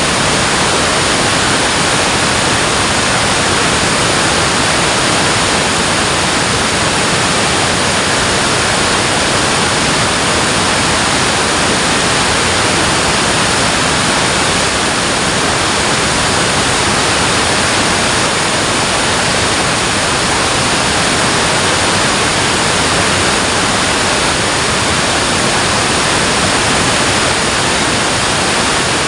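Water pouring through a dam, a loud, steady rush that holds even without breaks.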